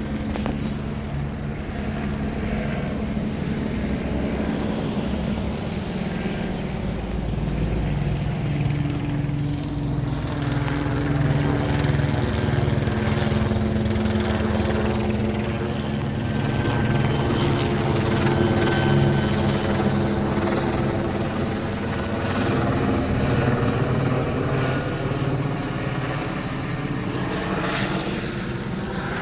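Police helicopter flying over, a steady rotor and engine drone that swells as it passes closest about halfway through, with a sweeping shift in pitch.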